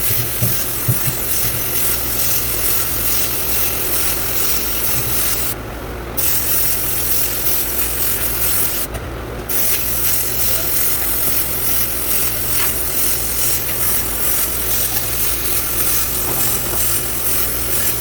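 Sandblaster running with a steady hissing blast that stops briefly twice, about six and nine seconds in, over a low hum.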